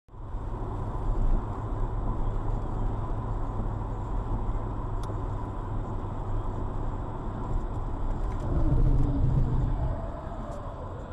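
Car driving along: steady low engine and road rumble heard from inside the cabin, with a faint steady tone above it. It swells for a moment about eight seconds in, with a falling pitch, then eases off.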